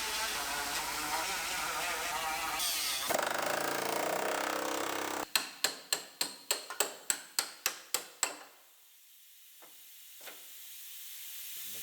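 Sheet-metal body repair on a car: a tool runs for about the first three seconds, then about a dozen sharp strikes come evenly, roughly four a second, and stop about eight seconds in.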